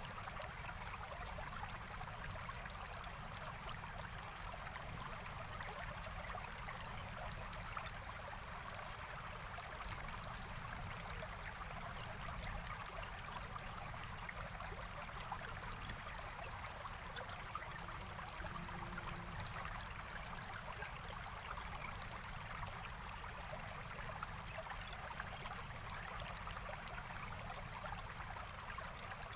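Forest stream flowing steadily, an even rush of water that does not change, with faint scattered campfire crackles.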